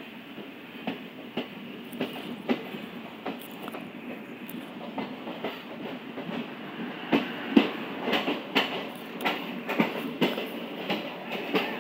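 Passenger train running slowly, heard from on board: a steady rumble with irregular sharp wheel clacks over the rail joints, coming louder and more often in the second half.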